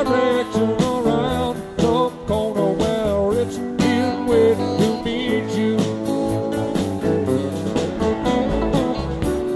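Band music in an instrumental stretch between sung verses: melodic guitar lines over bass and a steady drum beat.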